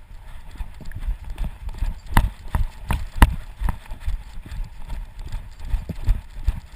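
Rhythmic knocks and thuds from a dog on the move with a GoPro strapped to its Fetch harness: footfalls and the camera jolting in its mount. The sharpest knocks come in a cluster a couple of seconds in.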